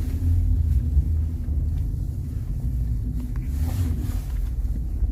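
Car driving, a loud, steady low rumble of engine and road noise with a faint steady hum over it.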